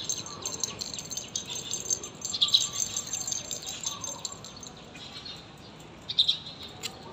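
Small birds chirping, many short, high, overlapping chirps, with a louder burst about two and a half seconds in and another about six seconds in.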